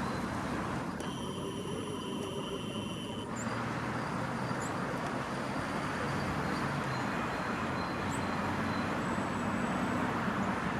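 Steady city traffic rumble, with short, faint, high bird calls over it. About a second in, a steady high tone sounds for about two seconds.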